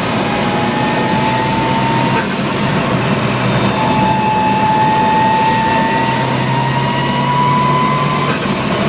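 Turbocharged 4G63 four-cylinder engine of an Evo 7, swapped into a Mitsubishi Lancer Evolution II, pulling under acceleration with a slowly rising whine. The whine breaks briefly about two seconds in and again near the end.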